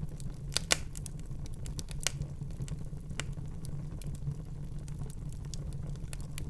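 Wood fire burning in a fireplace: a steady low rumble of flames with irregular sharp crackles and pops, the loudest pop about three quarters of a second in and another at about two seconds.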